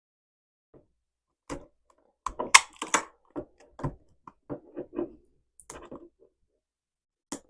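Plastic blind-box packaging being cut and torn open by hand: a run of short, sharp crinkles and clicks, loudest about a second in after a brief pause, with one more click near the end. The wrapping is tough to open.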